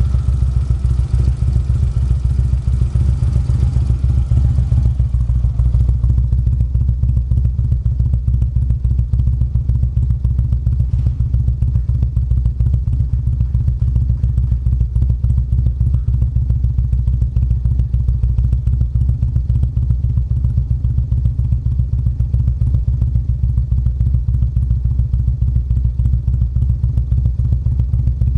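Harley-Davidson CVO Street Glide's Twin Cam 110 V-twin running at a steady idle through a Vance & Hines aftermarket exhaust, loud and deep with no revving.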